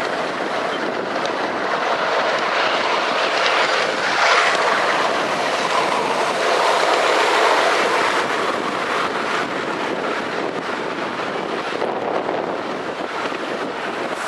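Miniature garden railway train running on its track, a steady noise of wheels and running gear mixed with wind on the microphone.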